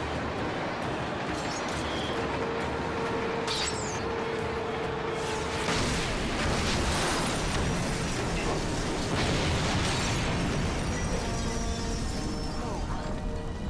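TV drama action soundtrack: a dense wash of mechanical rumble and booms, with a held tone from about two seconds in, growing louder in the middle, while the musical score comes through with sustained notes near the end.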